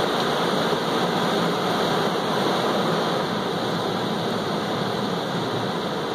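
Automatic car wash running over the car, heard from inside the cabin: a steady rushing of water spray and washing equipment on the bodywork.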